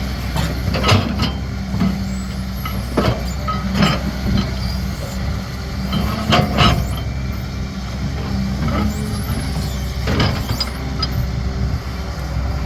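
A CAT 320D excavator's diesel engine running steadily under working load, with several sharp knocks from the machine's work scattered through, the loudest about a second in and around six and a half seconds in.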